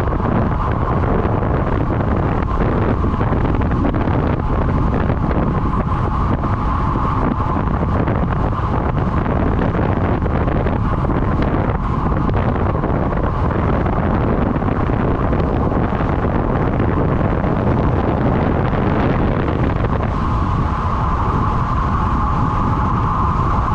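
Steady wind noise rushing over the microphone of a camera carried along on a road bike riding at race speed, with rolling road noise underneath.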